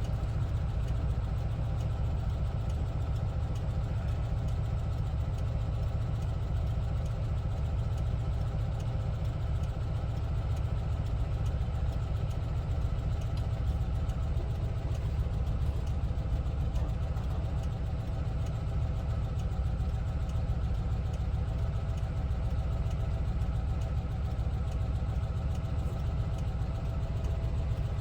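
1974 Volkswagen Westfalia camper's air-cooled Type 4 flat-four engine running steadily, with a deep even drone and no change in pitch.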